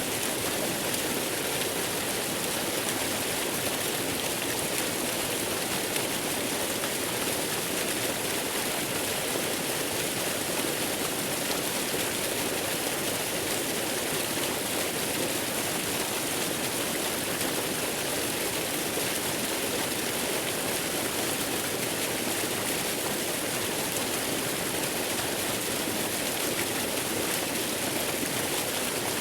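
Waterfall: a steady, even rushing of falling water that does not change throughout.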